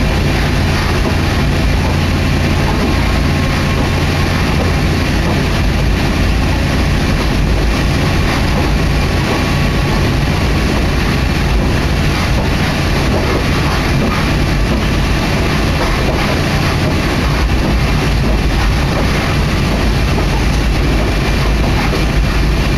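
Kashima Rinkai Railway diesel railcar heard from inside the cabin while running: a steady mix of engine hum and wheel-on-rail noise that does not change.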